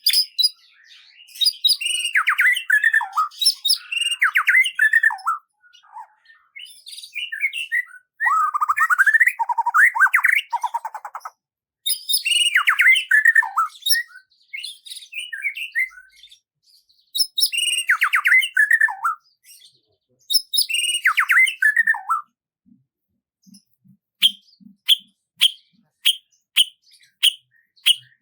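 Songbird singing in short warbled phrases that fall in pitch, five phrases with brief pauses between them, then a run of short, evenly spaced chirps about two a second near the end.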